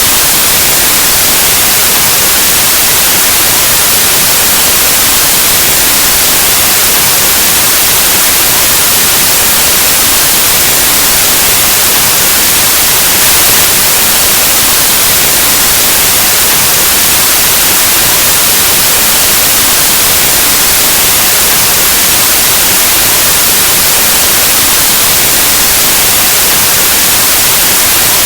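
Steady white noise, a loud, even hiss like analog TV or radio static, unchanging throughout.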